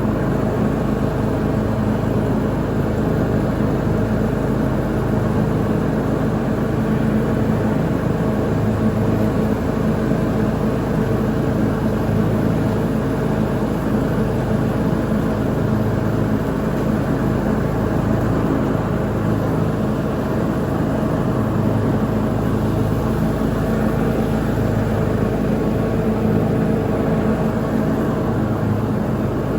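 Lawn mower engine running steadily while mowing, a constant drone with no change in speed.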